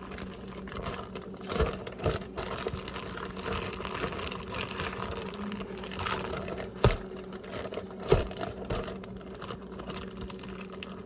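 Irregular clicks, clinks and knocks of a utensil working a bowl while a paste is mixed, over a steady electrical hum. A few sharper knocks stand out about 2, 7 and 8 seconds in.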